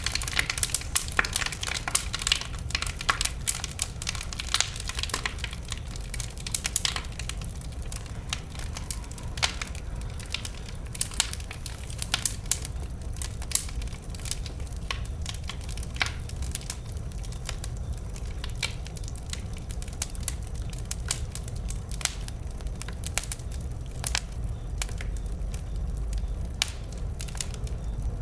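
Wood fire crackling and popping, with irregular sharp snaps that come thickest in the first few seconds, over a low steady rumble.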